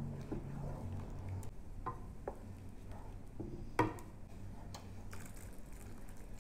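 A spoon or ladle stirring soup in a pot, with small scattered knocks and one sharper clink against the pot about four seconds in.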